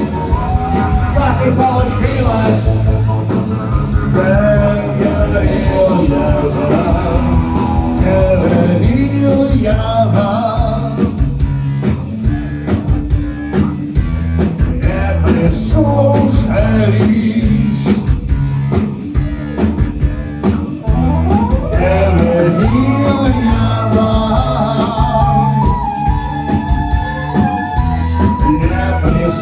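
Live rock band playing a song with a singer's voice over drums, bass and guitars, with a steady beat.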